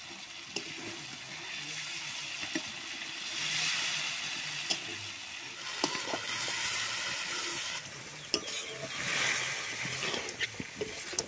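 Raw chicken pieces sizzling in hot oil and spices in a metal kadai, stirred with a metal spatula that scrapes and clicks against the pan. The sizzle swells in waves as the meat is turned.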